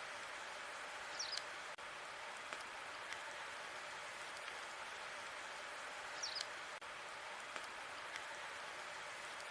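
Wood fire burning in a fireplace: a steady hiss with scattered small crackles and pops. A short, high chirp sounds twice, about five seconds apart.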